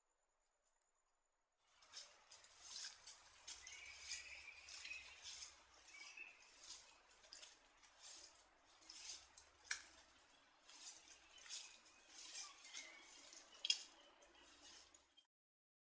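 Australian brush turkey scratching and raking through dry leaf litter: a run of dry rustling scrapes, roughly one or two a second, starting about two seconds in and stopping shortly before the end.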